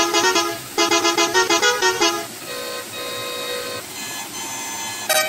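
Ice cream truck jingle played as a chime or horn melody: quick runs of short, bright notes, then two longer held tones past the middle and a higher held tone near the end.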